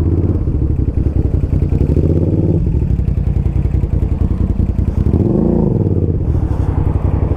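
Suzuki SV650N's 645 cc V-twin engine running at low speed. Its note rises briefly about two seconds in, and swells up and back down once around five seconds in.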